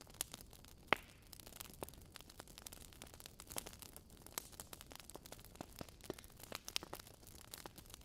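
Wood fire in a fireplace crackling: burning logs give irregular sharp pops and snaps over a soft hiss, the loudest pop about a second in.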